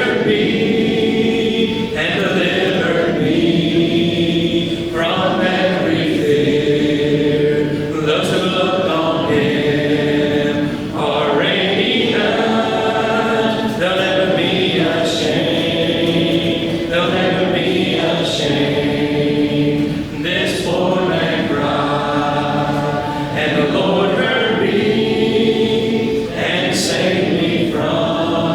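Congregation singing a hymn a cappella in many voices, without instruments, in long held phrases that change about every two seconds.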